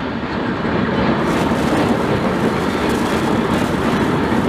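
Coaches of a Rajdhani Express passenger train rolling past along the platform, a steady noise of wheels running on the rails that grows a little louder about a second in.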